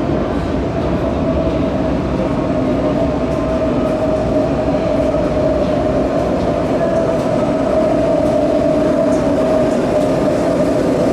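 Electric passenger train running through a station: a steady rumble with a steady whine over it, growing a little louder toward the end.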